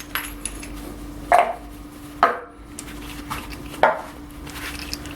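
A few sharp knocks and clinks of a steel ball joint and tools being handled at a bench vise after pressing, three louder knocks among fainter clicks.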